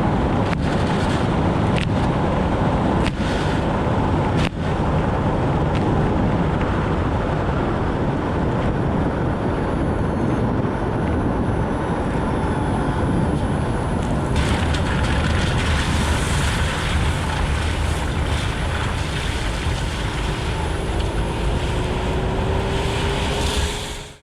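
Nissan Note e-POWER driving on a rain-soaked road: a steady rush of tyre and water-spray noise, with a few light ticks in the first few seconds and a faint rising whine near the end.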